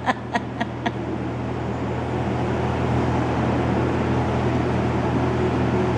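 A steady low mechanical hum, like an engine or motor running, with four light clicks in the first second.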